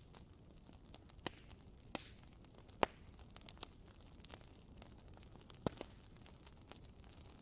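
Wood fire crackling softly, with irregular sharp pops over a faint steady hiss; the loudest pop comes about three seconds in.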